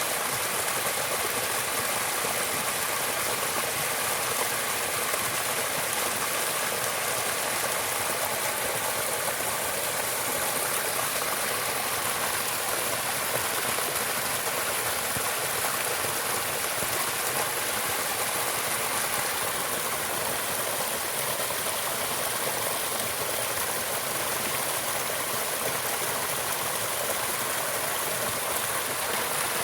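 Running water making a steady, even rush with no breaks, like a flowing stream.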